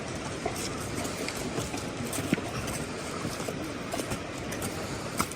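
Steady heavy rain with the scattered pops and crackles of a wood fire, one sharp pop about two seconds in.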